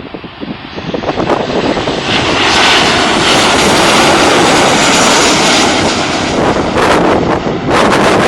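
Jet engines of a Boeing 737-800 airliner passing close by on its landing, a loud, even noise that builds up about two seconds in and holds steady until near the end.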